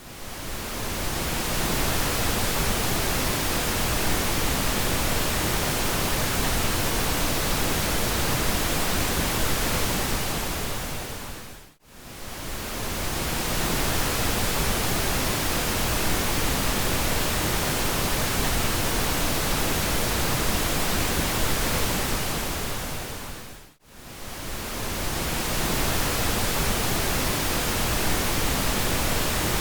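Steady synthetic pink noise, an even hiss weighted toward the low end. Twice, about twelve seconds apart, it fades down almost to silence for a moment and swells back up.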